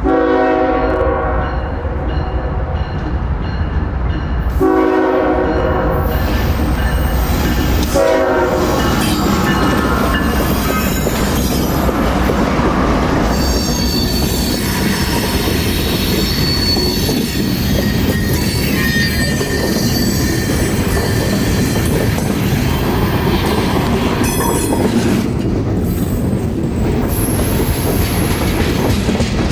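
A train sounds its horn: one long blast, a shorter second blast, then a brief third. The train then runs past with a steady loud rumble, wheel clatter and high-pitched wheel squeal.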